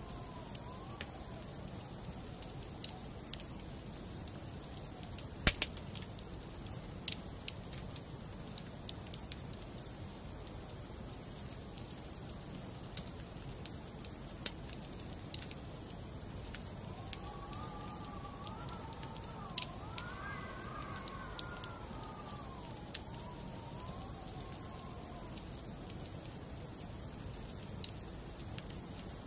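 Wood fire burning in a fireplace: a steady low rush of flames with frequent crackles and snaps from the logs, one sharp pop about five and a half seconds in. A faint wavering whistle rises and falls for several seconds past the middle.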